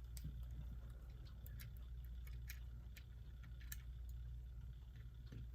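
Faint, irregular small clicks and taps of multimeter test probes against the metal battery contacts of a quartz clock movement while testing for continuity, over a low steady hum.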